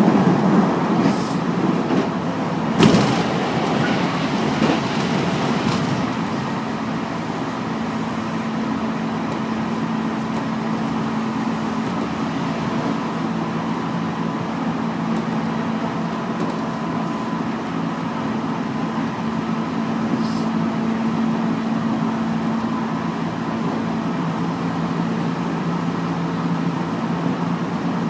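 JR Central 311 series electric multiple unit running at speed, heard inside the carriage: steady wheel-on-rail rumble with a motor hum, and a single sharp knock about three seconds in.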